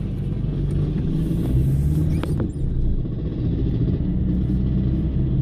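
A 1986 KTM 350cc two-stroke engine in a Derbi Senda running at low revs, its pitch shifting slightly. There is one sharp click a little over two seconds in.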